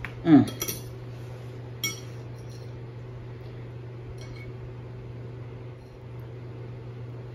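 Light clinks of tableware at a meal, the sharpest about two seconds in with fainter ones around four seconds, over a steady low hum.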